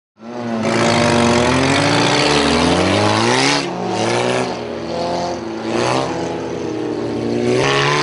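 Demolition derby cars' engines revving hard, their pitch repeatedly rising and falling as several engines rev together. The sound cuts in abruptly just after the start.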